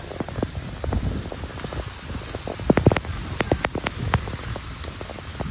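Heavy rain falling and spattering on surfaces, with a steady hiss and many sharp drips and splashes.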